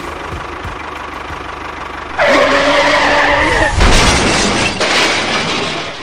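A toy tractor's steady engine-like hum, then about two seconds in a sudden loud screech followed by a noisy crash and rumble as the tractor and trailer tip into a sand pit. The crash fades out near the end.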